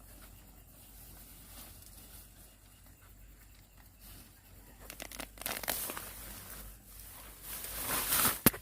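Rustling and tearing of plant leaves, in two louder bursts about five seconds in and near the end, with a sharp snap just before the end.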